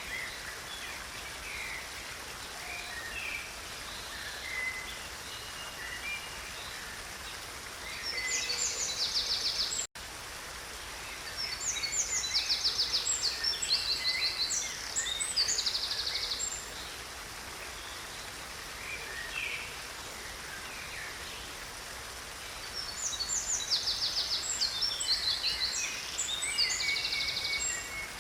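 Creek water running steadily, with a songbird singing three bouts of fast, repeated high trilled notes and scattered shorter chirps between them.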